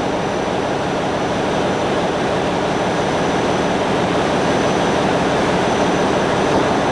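Ship's engine-room machinery running: a loud, steady, unchanging noise with a faint high whine on top.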